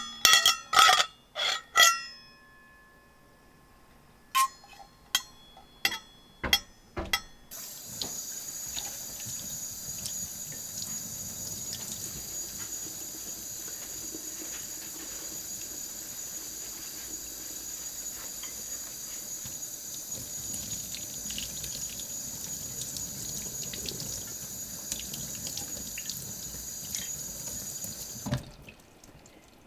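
A few sharp metal clinks, then a steady sizzle with small crackles from fat in a mini frying pan over a solid-fuel stove; the sizzle starts suddenly and cuts off near the end.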